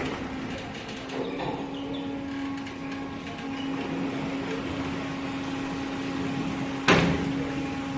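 A motor running with a steady hum under a general rumble, and a single sharp knock about seven seconds in.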